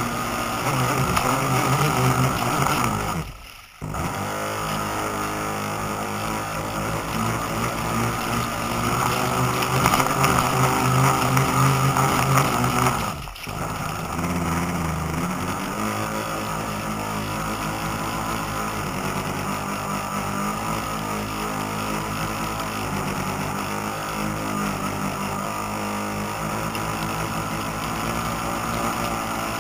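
Radio-controlled model boat motor running on the water, its pitch stepping up and down with the throttle. It drops out briefly twice, a few seconds in and just before halfway.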